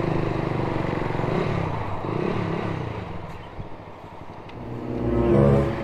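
Motorstar Z200s motorcycle engine running as the bike loses speed, its note dipping and fading, held back by a dragging, locking rear brake. About five seconds in, a short louder burst of engine sound.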